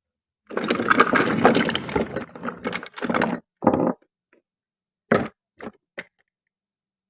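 Dense crackling and crunching for about three seconds, as something brittle is crushed or cut, then a shorter crunch and three sharp clicks.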